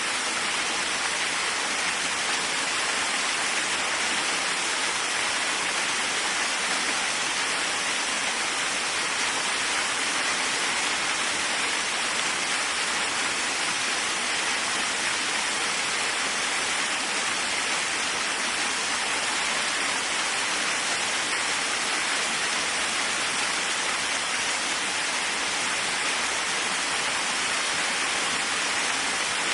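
Waterfall: a steady, unbroken rush of falling water, an even hiss that stays at the same level throughout.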